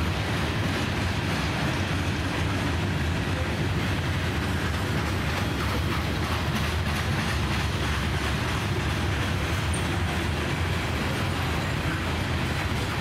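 Norfolk Southern freight train of steel-wheeled coal gondolas rolling past, a steady rumble of wheels on the rails.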